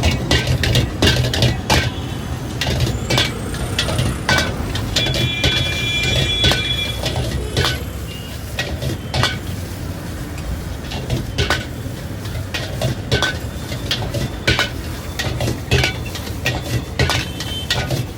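Metal spatula clanking and scraping against a wok in quick, irregular strikes while fried rice is stir-fried, over a steady low rumble.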